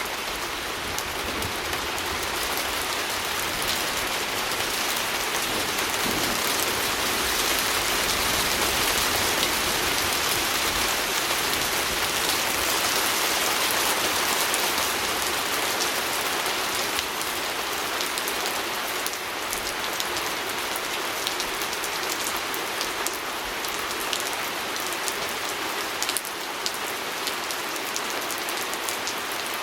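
Steady rain falling on a window pane, a dense patter of drops with scattered sharper ticks, swelling slightly partway through and easing a little later.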